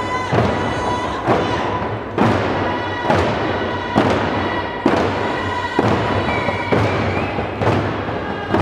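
Music: a drum struck in a steady beat about once a second, under a sustained higher held tone.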